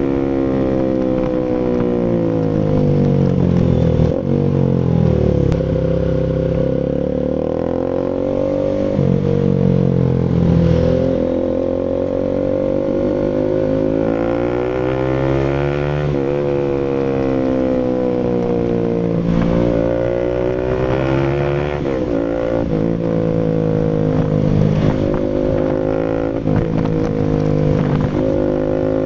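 Bajaj Rouser RS200's single-cylinder engine running through an SC Project full exhaust, its note rising and falling again and again as it is revved up and eased off.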